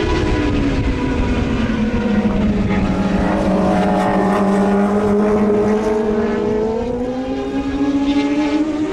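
Racing motorcycle engines running loud and steady. The engine note drops in pitch over the first couple of seconds, holds low, then climbs again near the end.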